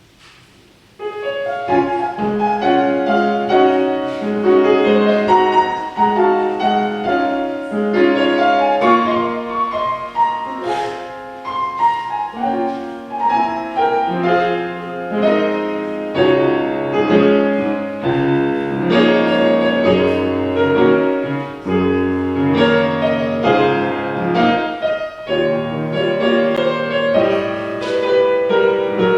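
Piano playing a church postlude, a flowing piece of chords and melody that begins about a second in.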